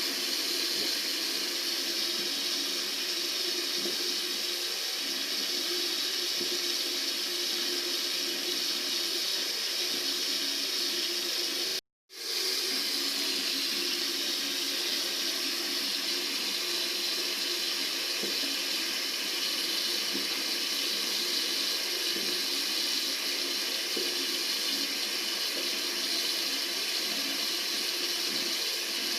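Water running steadily from a tap into a sink, an even rushing hiss. It cuts out completely for a split second about twelve seconds in, then resumes unchanged.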